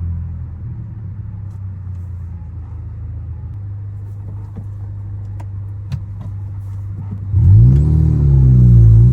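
Ford Focus ST's turbocharged engine running at a steady low hum while cruising. About seven seconds in it is put under hard throttle: the revs climb sharply and loudly, dip briefly and climb again, with a faint high whistle above the engine.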